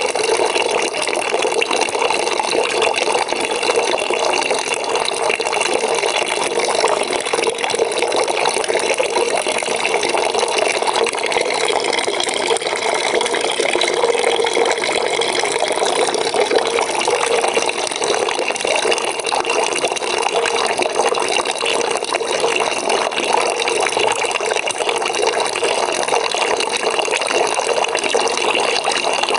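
Water from a tap running steadily into a bucket, a continuous splashing, pouring rush with no breaks.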